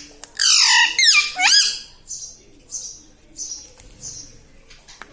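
Indian ringneck parrot squawking: a quick run of loud, sharp calls in the first two seconds, then softer high calls.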